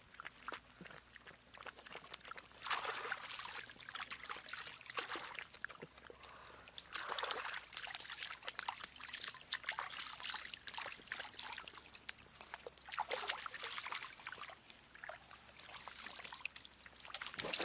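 Water splashing and trickling in several short bursts, with small knocks among them.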